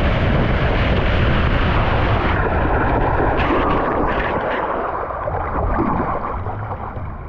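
Loud, steady rush of water and wind buffeting the microphone on a water-park slide. The hiss thins out a little over two seconds in, and the whole rush eases slightly near the end.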